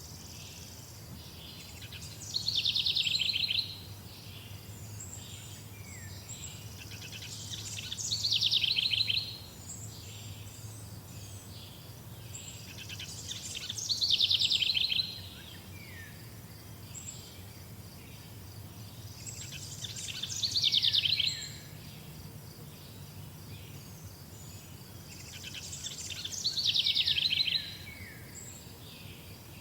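A songbird repeating the same short song about every six seconds, five times. Each song is a fast trill about a second and a half long that drops in pitch at the end. Faint high chirps from other birds and a low steady hum run underneath.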